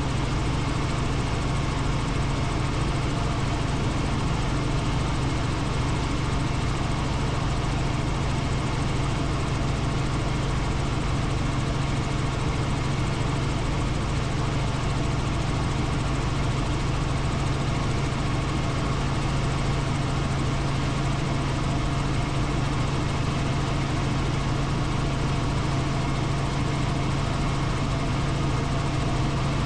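Helicopter in flight: engine and rotor noise as a steady, unchanging drone with a strong low hum.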